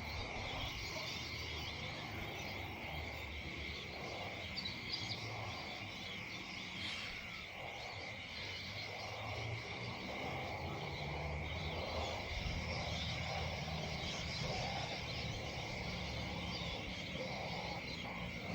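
Evening chorus of frogs and insects: a steady high trill that never lets up, with a low rumble underneath.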